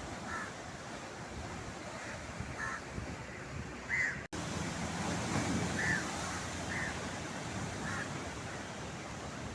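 Steady wash of sea surf with a bird giving short calls every second or two. The sound cuts out for an instant about four seconds in.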